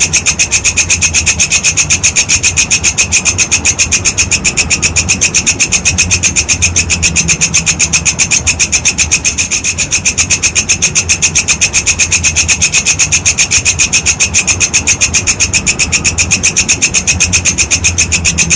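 Walang kecek (walang kekek) insect calling: a steady, rapid, evenly repeated high chirping at about five pulses a second, over a faint low hum.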